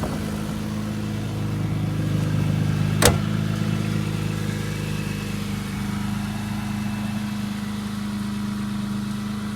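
BMW E30 M3's S14 four-cylinder engine idling steadily, with a single sharp knock about three seconds in.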